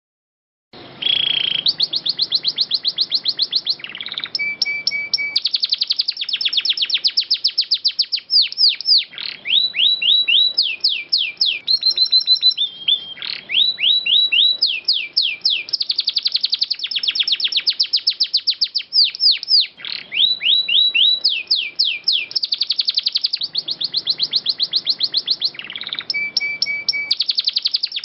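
Domestic canary singing long rolls: fast trills of repeated high notes, one phrase running straight into the next, starting about a second in.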